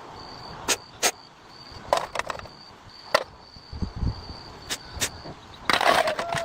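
Irregular sharp clinks and knocks, as of hand tools striking and setting down on metal engine parts during work on a diesel engine, with a brief flurry of them near the end. A faint high trill runs on behind.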